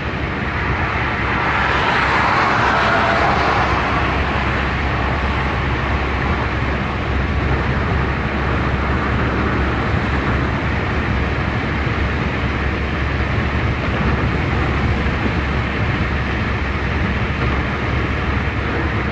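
Steady road and engine noise of a car being driven, swelling louder for a couple of seconds near the start.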